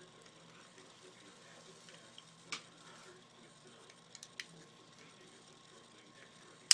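Small parts of an airsoft pistol clicking and tapping as a spring and part are worked into place: one click about two and a half seconds in, a few light ticks around four seconds, and a sharp, loud snap near the end.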